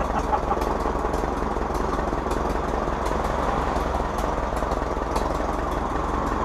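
A Farmall H tractor's four-cylinder petrol-paraffin engine running steadily and evenly, sounding sweet.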